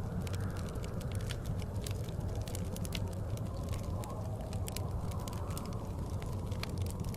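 Wood fire crackling in a fireplace, with irregular sharp pops and snaps, over the steady low rumble of blizzard wind.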